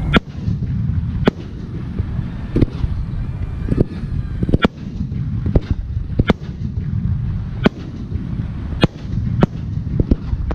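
Firework aerial shells bursting: about a dozen sharp bangs at irregular intervals over a steady low rumble. Faint whistling glides come midway.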